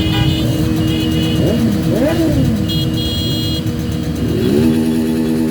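Motorcycle and car traffic in a large motorcade: engines running and revving, with horns sounding. About four and a half seconds in, a long, steady, loud tone sweeps up and holds.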